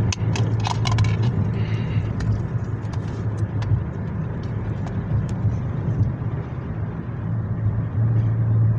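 Car engine running, heard from inside the cabin as a steady low hum. Sharp plastic clicks in the first second or so as a DVD is pressed off the hub of its case, and a few lighter clicks later as the disc is handled.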